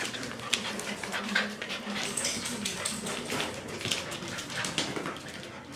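Standard poodle puppies moving about and playing, with many small irregular clicks and scuffles and faint dog whimpering.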